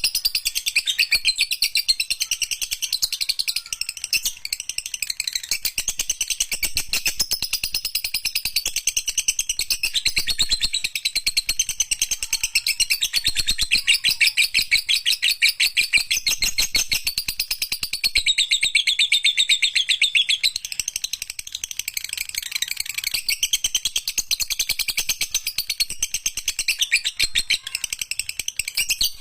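Lovebird singing a long, unbroken chattering song ('ngekek panjang'): a rapid stream of high chirps and trills without pauses.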